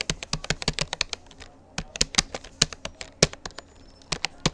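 Keystrokes on a Rapoo computer keyboard during fast touch typing: an irregular run of quick clicks, several a second, pausing briefly twice.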